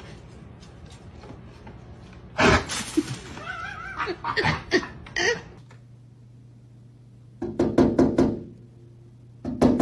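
A series of knocks and thumps coming in clusters: one group about two and a half seconds in, more a couple of seconds later, and quick runs of them about seven and a half seconds in and again near the end.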